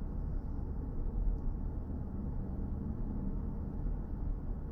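Steady low road and tyre rumble of a BMW i4 M50 electric car cruising along.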